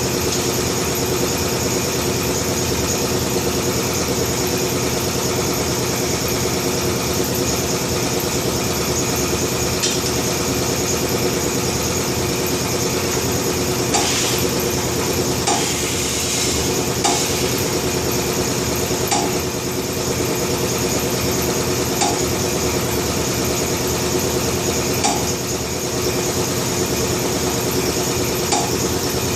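Steady machine drone, like a motor or compressor running, with a light metallic clink every few seconds as the tire and steel rim are worked on the tire changer.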